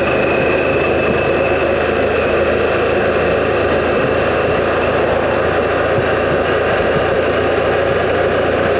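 Harley-Davidson Pan America motorcycle being ridden at a steady speed: the engine runs steadily under wind and road noise, with a thin high whine that fades away in the first few seconds.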